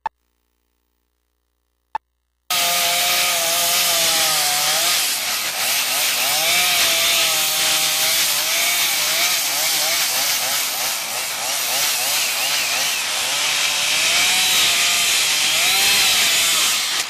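Near silence with a single click for about two and a half seconds, then a chainsaw running hard, its pitch rising and falling as it cuts into wood.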